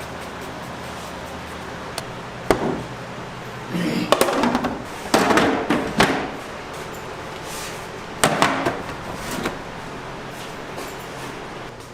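Kitchen work clatter: sharp knocks and bursts of rattling, clattering impacts in two clusters, over a steady hum.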